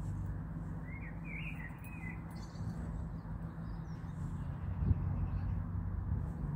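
A small bird gives a short twittering call about a second in, over a steady low hum. A single brief knock comes about five seconds in.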